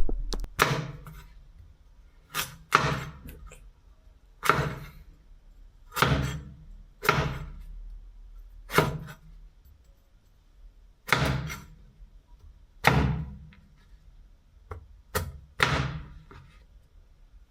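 Kitchen knife chopping sweet potato on a cutting board: separate sharp knocks, roughly one a second and unevenly spaced, each with a low thud and a short ring.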